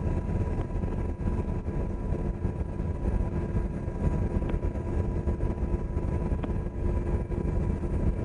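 UH-60 Black Hawk helicopter in flight: the steady, dense rumble of its rotors and twin turboshaft engines inside the cabin, with a couple of constant hums over it.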